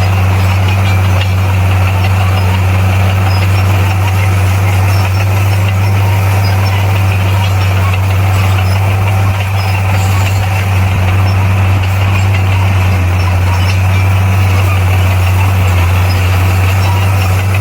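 A bulldozer's diesel engine running at a steady speed, a loud low drone that holds unchanged throughout.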